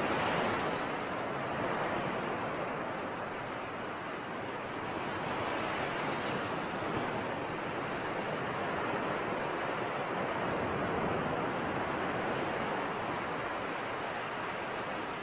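Sea surf: waves washing onto the shore in a steady rushing noise that swells and eases every few seconds.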